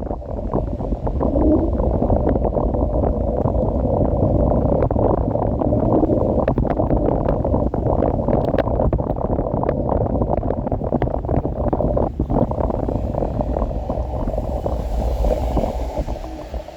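Steady rumbling wind and road noise on the microphone of a moving electric scooter, with many small clicks and rattles scattered through it.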